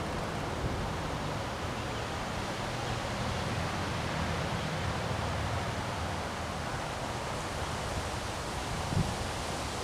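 Windstorm: strong wind blowing steadily with a rushing, rustling noise and a low rumble. A brief thump about nine seconds in.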